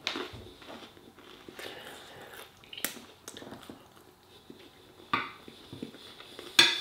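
A man chewing a forkful of chicken and rice, soft wet mouth sounds with small crackles, broken by a few sharp clicks, the loudest near the end.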